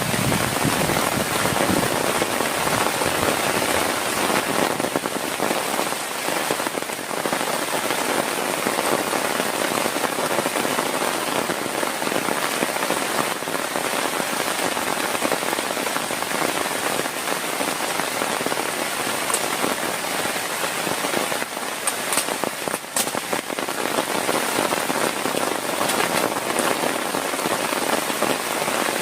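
Heavy rain falling steadily in a dense patter, with a few sharper drop hits about two-thirds of the way through.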